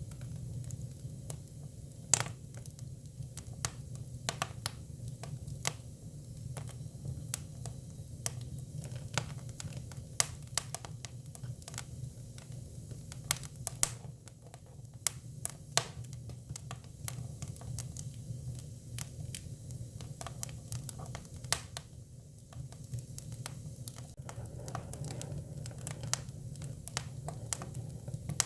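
Hinoki cypress firewood burning, with irregular sharp crackles and pops over a steady low rumble of the fire.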